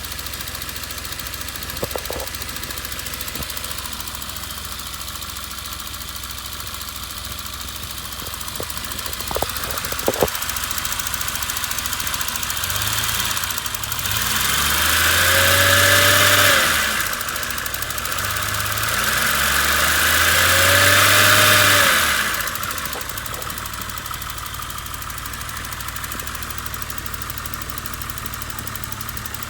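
M5 car engine idling, then revved twice, each rev climbing and falling back over about three seconds, before settling back to a steady idle. A few light clicks come in the first third.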